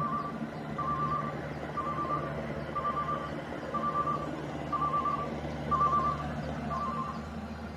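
Small rice combine harvester running, its warning beeper sounding a short pulsed beep about once a second over the steady engine hum.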